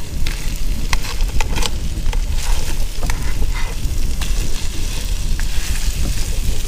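Lobster frying in garlic butter in a pan, sizzling steadily as it is stirred around, with scattered clicks of the utensil against the pan over a low steady rumble.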